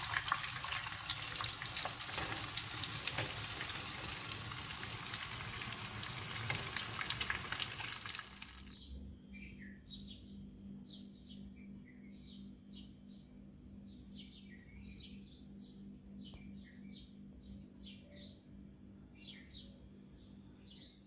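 Breaded eggplant slices frying in hot oil in a pan, a dense crackling sizzle that cuts off about nine seconds in; after it, faint scattered bird chirps over a low steady hum.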